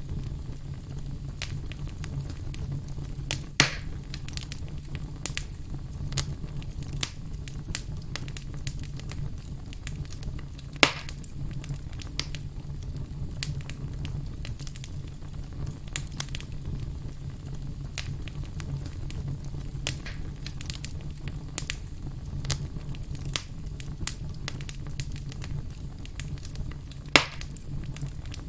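Burning firewood crackling steadily over a low flame rumble, with many small snaps and three louder pops about 4, 11 and 27 seconds in.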